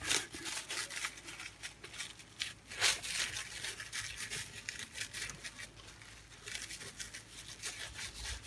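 Plastic cling film crinkling and rustling under the hands as it is rolled and twisted around a potato-wrapped sausage, with a louder rustle about three seconds in.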